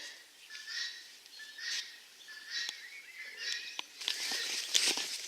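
Birds calling, a short call repeated about once a second. Near the end there is a louder burst of rustling.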